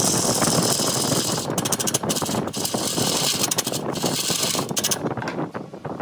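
Chisel cutting wood on a wood lathe: a dense scraping, rattling noise with rapid ticks, its hiss dropping away briefly near the end.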